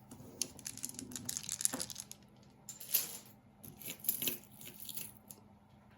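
Costume jewelry clicking and rattling as it is handled and picked through, in three bursts of small hard clicks: bead necklaces and chains knocking together.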